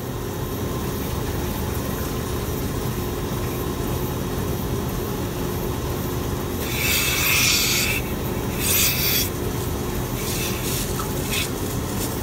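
Milking system's vacuum pump and pulsator line humming steadily, with two louder hissing rubs about seven and nine seconds in and a few fainter ones near the end.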